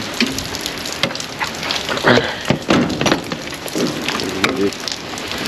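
Rain falling on a car: a steady hiss with many short, sharp drop ticks.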